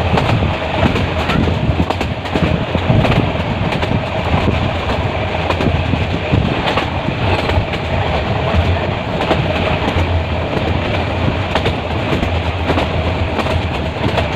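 Metre-gauge passenger train running, heard from on board: a steady rumble with the clickety-clack of wheels over rail joints.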